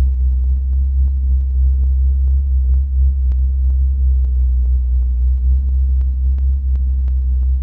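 Old truck engine idling steadily with a deep, even rumble, fitted with a Blue Phoenix electronic ignition, with faint regular ticks about two or three times a second.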